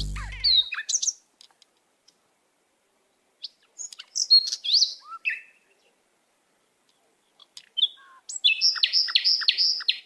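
Birds chirping and calling in three short bouts with silence between: quick high whistled notes, some sliding down and one rising. The last bout is a fast run of repeated notes, about four a second. A piece of music fades out in the first half-second.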